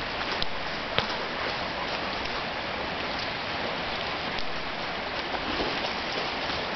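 Steady hiss with a few faint ticks, about a second in and scattered after.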